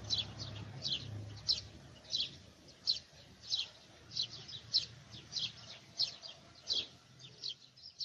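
Small birds chirping: a steady run of short, high chirps, each dropping slightly in pitch, coming in quick clusters about every half second.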